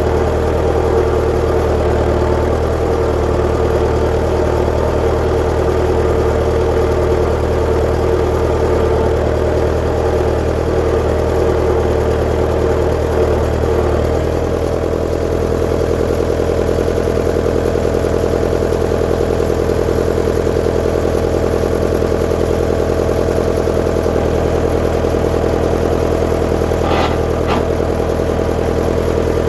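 1959 Fordson Power Major tractor's four-cylinder engine running steadily, its note changing about halfway through. Two short clanks near the end.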